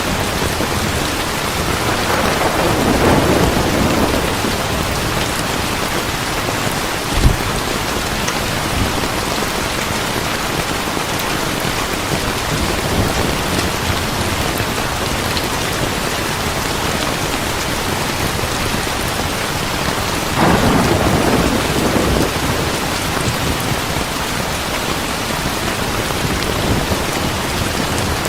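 Heavy steady rain with two rolls of thunder, one a couple of seconds in and one about twenty seconds in, and a single sharp crack about seven seconds in.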